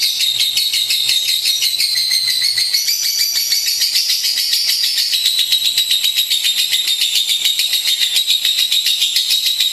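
A lovebird's long chattering song: an unbroken, rapid run of high chirps, many a second, rising a little in pitch for a couple of seconds in the middle.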